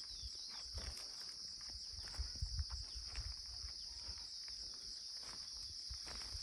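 A steady, high-pitched insect chorus, with footsteps and a few low thumps about two to three seconds in.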